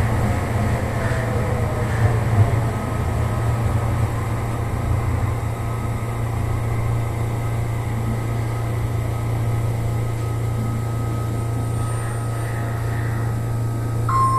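Sendai Subway Namboku Line 3000 series train running and slowing as it pulls into a station. A steady low hum runs throughout, and the motor whine falls in pitch over the first few seconds.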